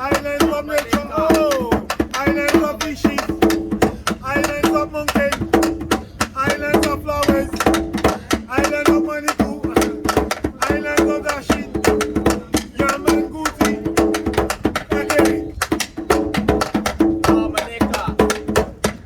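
Live street music with a steady percussive beat, a plucked string instrument and voices over it.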